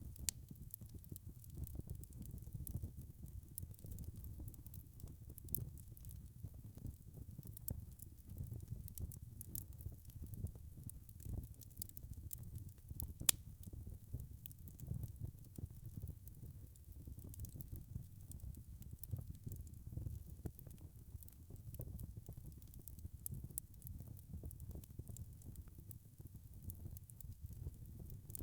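Wood fire burning in a fireplace: a low, steady rumble of flames with frequent small crackles, and one sharper pop about halfway through.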